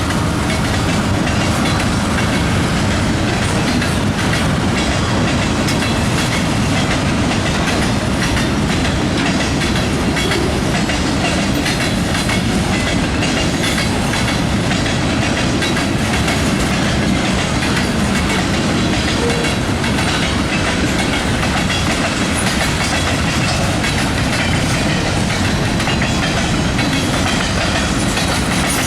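Freight cars of a manifest train rolling past at steady speed, their steel wheels clattering over the rail joints in a continuous stream of noise.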